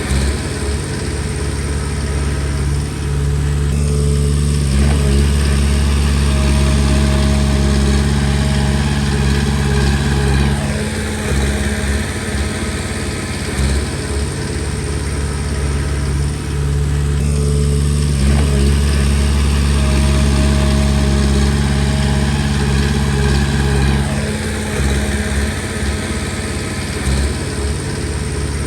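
Komatsu D20P bulldozer's diesel engine working under changing load. It pulls harder twice, each time for about six seconds, and eases back between, as the dozer pushes and backs off.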